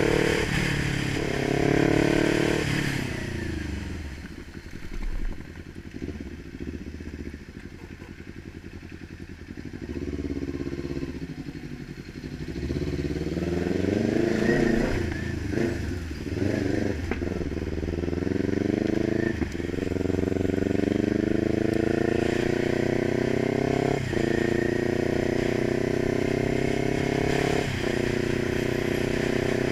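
Kawasaki 900 motorcycle engine being ridden: it eases off to a low, quieter run, then picks up again and pulls through the gears. The engine note climbs steadily and drops sharply at each upshift, three times in the second half.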